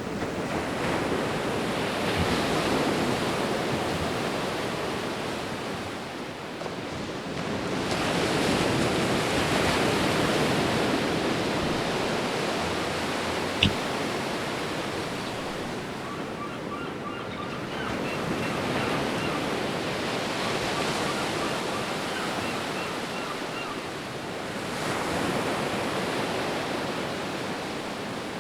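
Sea waves surging and falling back in slow swells, with wind on the microphone. A single sharp click about halfway through, and faint short high chirps in the second half.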